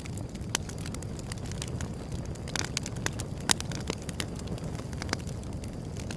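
Wood fire burning: a steady low rumble of flames with irregular sharp crackles and pops of burning wood, the loudest pop about three and a half seconds in.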